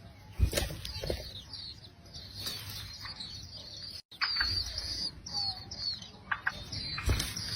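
Small birds chirping, with short high notes repeating a couple of times a second, mixed with a few soft low thumps. The sound cuts out briefly about halfway through.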